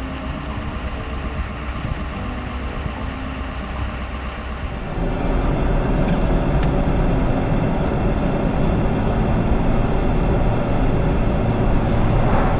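Pickup truck driving on the highway: steady road and wind noise that gets louder about five seconds in.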